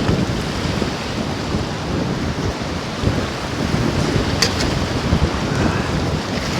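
Wind buffeting the microphone in gusts, a heavy low rumble, with a light click about four seconds in.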